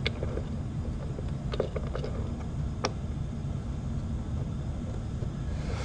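Steady low hum with a few light clicks and taps in the first three seconds, from small die-cast toy motorbikes being handled and set down in a toy display showroom.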